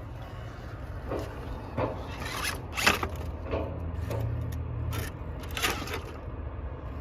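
RC rock crawler working over rock: a run of short scrapes and crunches from its tyres and chassis, about eight in all, with a low hum from its drivetrain about four seconds in.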